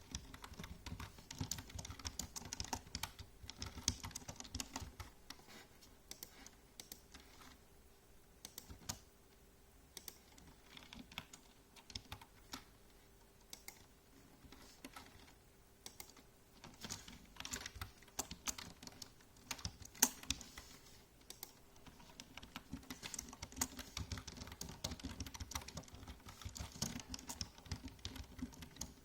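Typing on a computer keyboard: runs of quick keystrokes, dense for the first few seconds and again through the last ten or so, with only scattered keystrokes in the middle stretch. A faint steady hum sits underneath.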